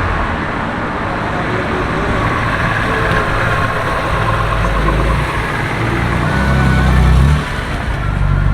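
Street traffic with a car engine running close by. Its low drone builds from about halfway through and drops away suddenly near the end.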